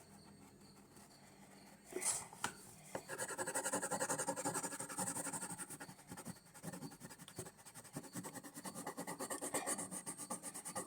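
Colored pencil being scribbled quickly back and forth on paper or cardboard to shade in an area. A few knocks come about two seconds in, then fast, even scratching strokes.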